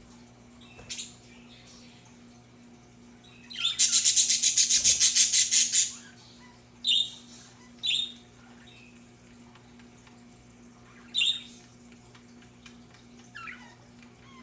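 Budgerigars calling: a loud, rapid pulsed chatter lasting about two seconds, then short single chirps a second or a few seconds apart.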